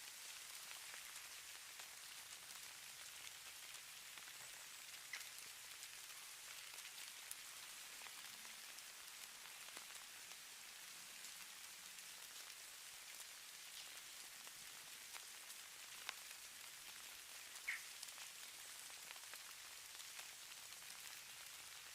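Faint, even hiss of falling precipitation sold as falling snow, with a few scattered light ticks of something landing, the clearest near the middle and about three-quarters of the way through.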